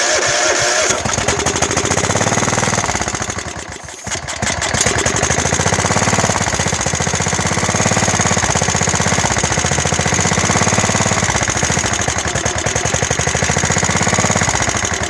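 Kohler engine of a Craftsman LT 1000 lawn tractor, long stored, firing and running on carb cleaner sprayed into the carburettor rather than on fuel from the tank. It runs loudly, sags about four seconds in, picks back up, and cuts out at the very end.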